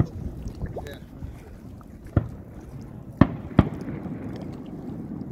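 Fireworks going off across a lake: sharp bangs, one at the start, one about two seconds in, and two close together just after three seconds in, over a low steady background noise.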